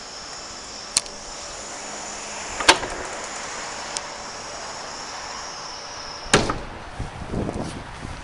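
Metal clunks and clicks on a truck, like doors or latches being worked. The loudest clunk comes about six seconds in, just as a steady high whine stops, and a short rattle follows.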